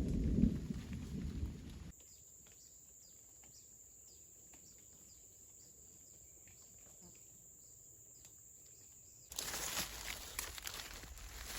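Low rumble of thunder in the first two seconds, cut off abruptly. Then a quiet stretch with faint scattered ticks and a thin steady high tone, and about nine seconds in, footsteps begin on the forest floor.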